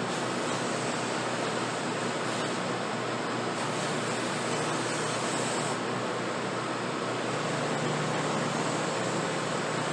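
Electric buffing wheel running steadily, a continuous rushing noise over a low motor hum, as a briar pipe bowl is buffed.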